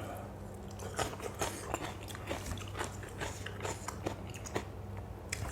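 A person chewing a mouthful of spicy lotus-stem and shrimp salad close to the microphone, with irregular small crunches and wet clicks of the mouth. A steady low hum runs underneath.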